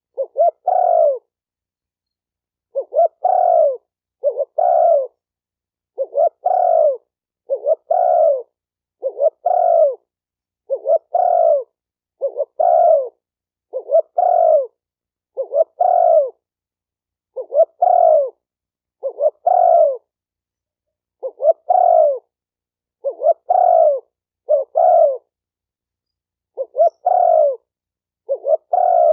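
Spotted dove cooing again and again. Each phrase is a short lead-in note followed by a longer coo that falls slightly in pitch, repeated about every one and a half to two seconds with clean silence between calls.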